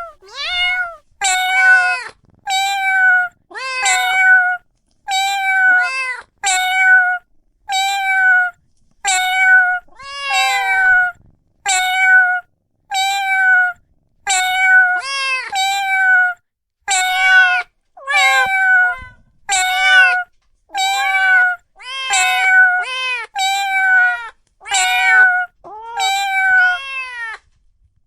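A cat meowing over and over, about one meow a second, each a clear rising-then-falling call.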